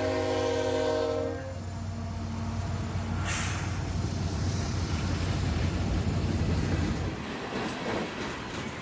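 CSX freight train's diesel locomotive air horn sounding a chord, cutting off about a second and a half in. The locomotive's engine then rumbles past with rail noise, easing off near the end.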